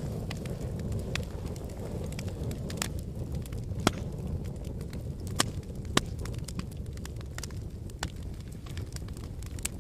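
Wood fire burning in a fireplace: a steady low rumble of flames with scattered sharp crackles and pops of the burning logs, a few louder ones about four to six seconds in.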